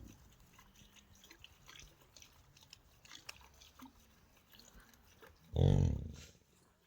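Faint scattered clicks, then about five and a half seconds in a single loud, low animal grunt that fades away.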